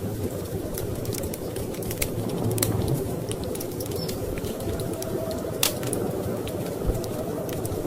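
Wood fire in a fireplace crackling, with irregular sharp pops, a louder one about halfway through, over a steady low rush of storm wind.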